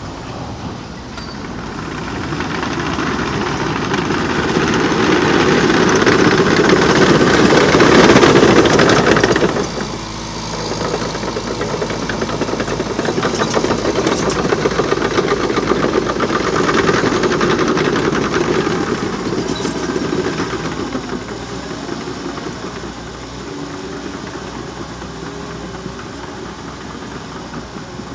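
Liebherr PR 726 crawler dozer working, its diesel engine running under load with the steel tracks clanking. The sound grows louder to a peak about nine seconds in, drops off suddenly, swells again and then eases off in the last third.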